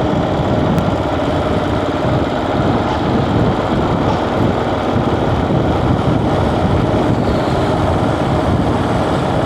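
Motorcycle running steadily on the move, its engine hum mixed with wind and road noise.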